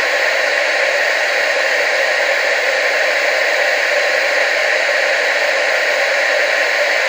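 Analog TV static: a steady hiss, strongest in the upper middle and thin in the bass, with no breaks or changes.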